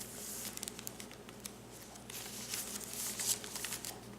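Paper pages of a small handmade junk journal being handled and turned: soft rustling with light ticks, busier in the second half.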